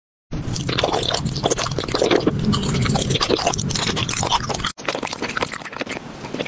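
Close-up eating sounds of candy being bitten and chewed, ASMR-style: dense crunching and crackling. It stops for a moment a little before five seconds in, then goes on more softly.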